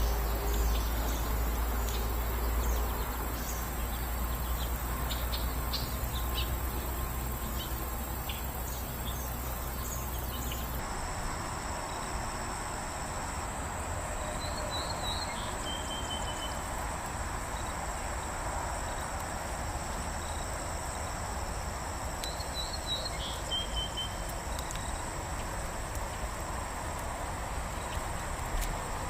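Woodland ambience of insects and birds. For the first part a low rumble and hiss sit under scattered short chirps. Then steady high-pitched insect trilling sets in, and a bird repeats a short song three times, a few high notes dropping to a lower trill each time.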